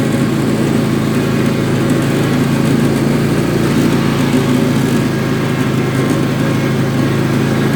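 Husqvarna lawn tractor's engine running steadily at an even speed.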